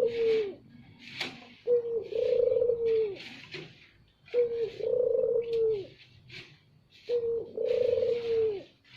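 Ringed turtle dove (puter) cooing loudly: three repeated coos, each a short note followed by a long held one, about every two and a half seconds.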